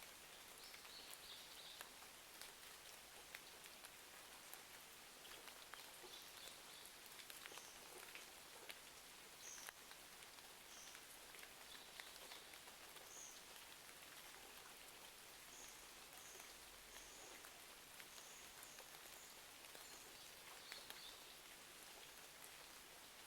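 Faint steady rain with the light crackle of a fireplace: scattered small clicks over an even hiss. Short high bird chirps come in now and then, more often in the second half.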